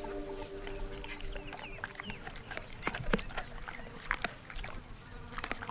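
Spotted hyenas and black-backed jackals squabbling at a carcass as the hyenas drive the jackals off: a string of short, sharp yelps and calls. Background music fades out in the first half second.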